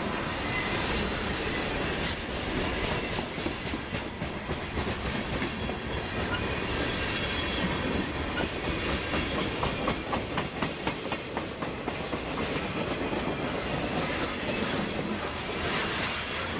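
Norfolk Southern freight train rolling past, its wheels clicking in a steady rhythm over the rail joints.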